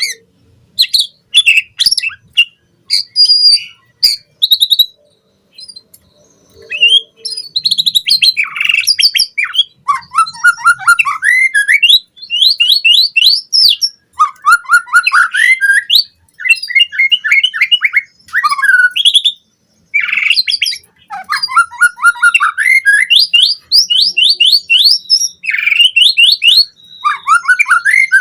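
White-rumped shama (murai batu) singing loudly. The first few seconds hold scattered sharp call notes. After that come fast phrases of rapidly repeated sweeping whistles, each phrase lasting one to two seconds with short breaks between them.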